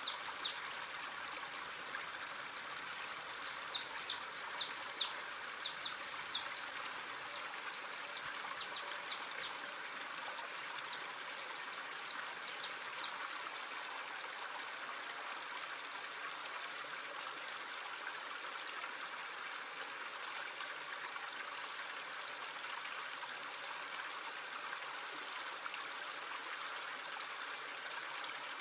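A stream runs with a steady rushing and trickling. Over it, a bird gives many quick, short, high chirps for about the first half, then falls silent, leaving only the water.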